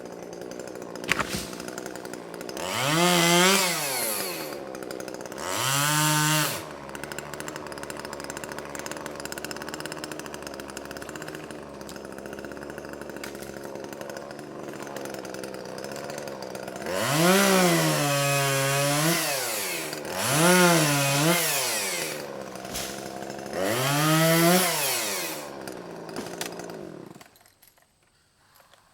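Chainsaw idling, then opened up five times, each burst rising and falling in pitch, as in cutting small trees. It shuts off near the end.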